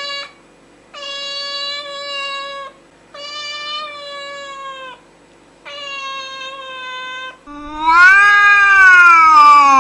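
A cat meowing: a run of long, drawn-out meows about two seconds each at a steady pitch, then a louder, lower yowl that rises and falls, starting near the end.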